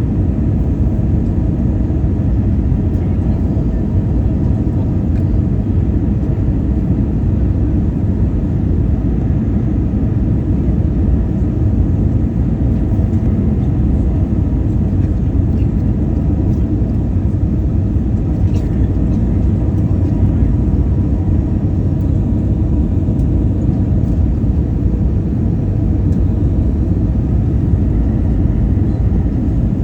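Steady low rumble of engine and airflow noise heard from inside an airliner's passenger cabin in flight.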